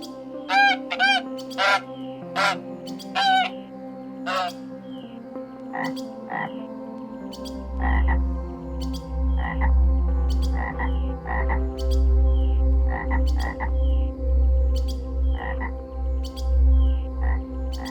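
Animal calls: short pitched calls repeated several times, then a deep low pulsing croak-like sound from about seven seconds in.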